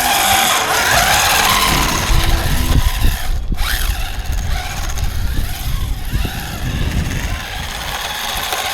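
1/16-scale UDIRC 1607 RC drift car driving hard: its electric motor whines up and down with the throttle over steady tyre and road noise. The sound breaks off briefly about three and a half seconds in.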